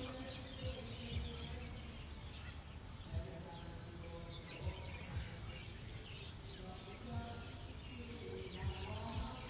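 Small birds chirping over a field, with fainter pitched calls held lower down and a few soft low thumps scattered through.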